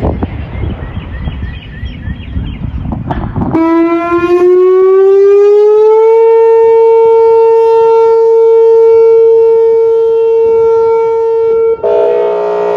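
Outdoor tornado warning siren sounding its alert tone: it starts a few seconds in, rises in pitch for a couple of seconds, then holds one steady tone. Near the end it switches abruptly to a harsher, chord-like horn tone. Wind noise on the microphone before the siren starts.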